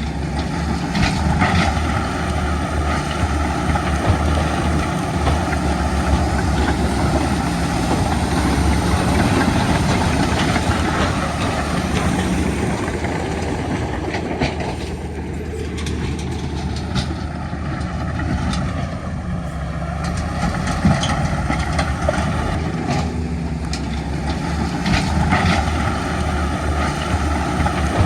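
Heavy diesel earthmoving machinery running steadily, with a few short metallic clanks.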